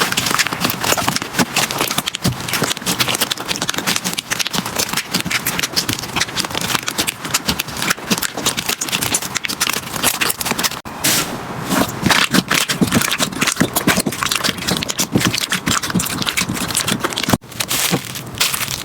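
Hands squeezing and pressing slime, giving a dense, continuous run of crackles and small pops, with a brief break near the end.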